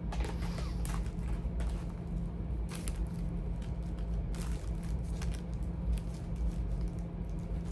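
Charging cords being handled and sorted: scattered light rustles and clicks over a steady low hum.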